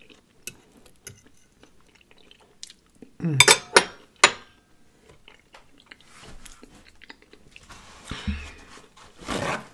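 Close-miked wet chewing and lip smacking of a person eating a soft, saucy loaded baked potato with shrimp. About three seconds in comes a loud cluster: a short hummed "mm" and then two sharp smacks. A noisy, breathy burst follows near the end.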